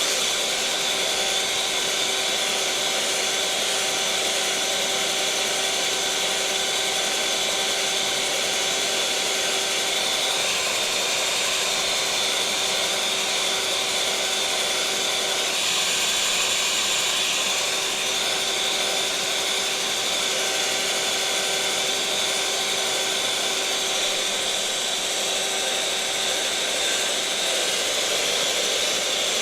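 Electric mixer motor running at a constant speed: a steady whirring hum with a higher whine over it, never changing pitch.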